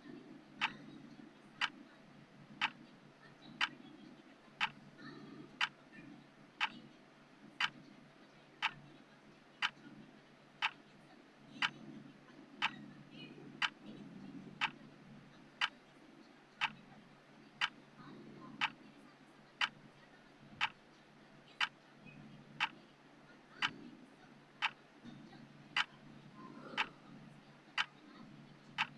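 Clock-style timer ticking steadily, one sharp tick about every second, over a faint low background noise.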